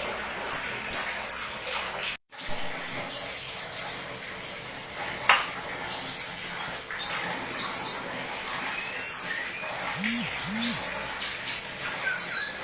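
White-eye (pleci) singing: a rapid run of short, high chirps and twitters. The sound drops out briefly about two seconds in, and two low, arching hoots come near the end.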